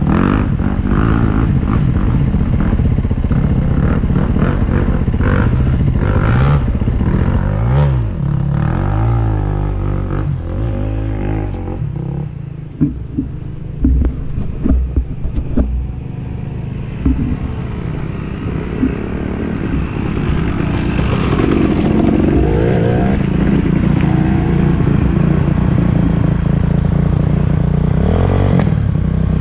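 2019 Yamaha YZ450FX's single-cylinder four-stroke engine revving hard and unevenly as the dirt bike climbs a slick muddy hill. Through the middle of the stretch the engine drops off for several seconds and a few sharp knocks and clatters come through. Then it revs up again and runs loud and steady to the end.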